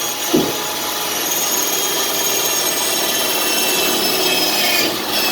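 Electric drill running steadily at full speed, boring one of the holes for the bucket-seat mounts in a 1941 Dodge truck.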